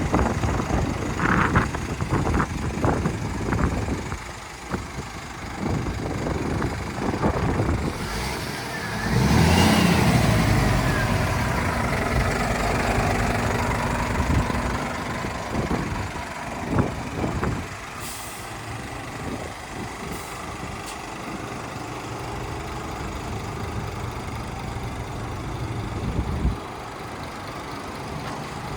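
Scania S500 truck's 13-litre straight-six diesel running, with a few knocks in the first seconds. The engine gets noticeably louder about nine seconds in and stays up for several seconds. There are short air hisses about two-thirds of the way through.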